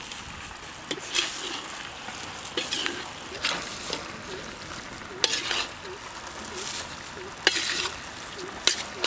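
Chicken pieces sizzling in butter in a large steel wok, with a perforated metal spoon scraping through and turning them every second or two. It gives a few sharp metal-on-metal clicks against the pan.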